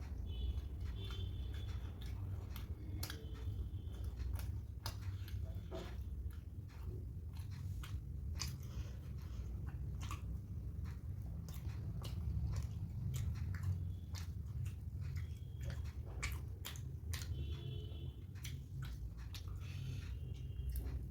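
A person chewing and biting poori with potato and chickpea curry, close to the microphone, with many short sharp mouth clicks over a steady low hum.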